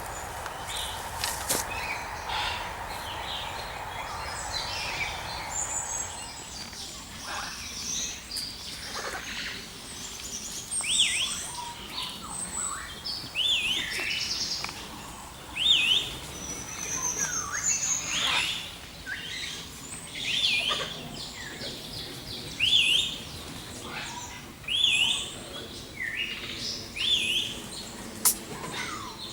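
Several aviary birds chirping and calling together. From about a third of the way in, one short, sharp, rising call repeats every two seconds or so.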